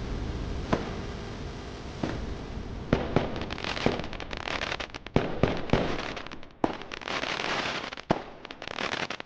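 A run of sharp cracks and pops over a hiss. At first single cracks come about a second and a half apart, and about three seconds in they thicken into a dense, irregular crackling.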